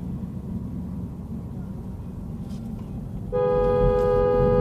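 Low vehicle rumble from the road, then a car horn sounding one long, steady two-note blast that starts about three seconds in.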